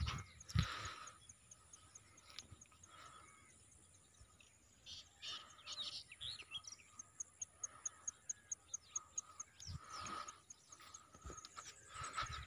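Faint outdoor ambience of birds calling, with scattered chirps and, through the middle, a long run of quick, evenly spaced high chirps, a few each second. A few soft low thumps are mixed in.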